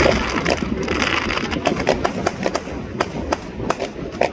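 New Year fireworks going off: a rapid string of sharp cracks and pops, coming thicker about halfway through, over a steady background din.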